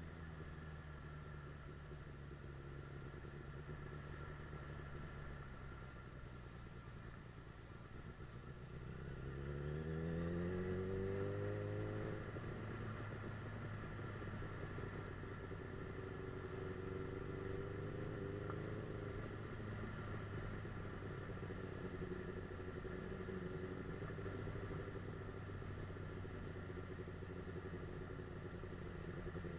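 Suzuki GSF 600 Bandit S inline-four engine under way, running low, then accelerating with a rising pitch about nine seconds in before settling to a steady cruise.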